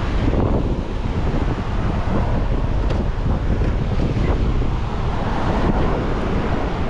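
Wind buffeting the microphone in a steady low rumble, with the sea's waves washing behind it.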